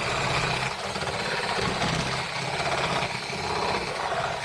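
A handheld power tool running steadily, with a fast mechanical buzz.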